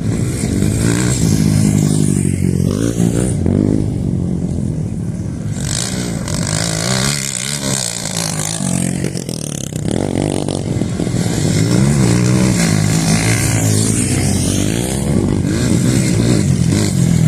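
Motorcycle engines revving, their pitch rising and falling over and over.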